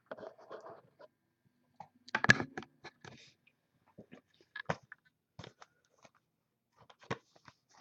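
Scattered clicks, crinkles and knocks from things being handled on a desk, the loudest a knock about two seconds in.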